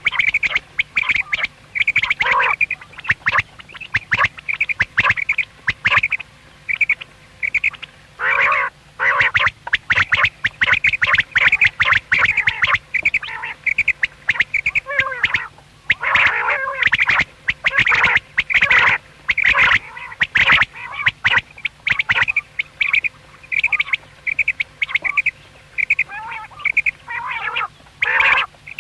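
Common quail calling: rapid runs of short, sharp notes repeated over and over, with a few brief pauses.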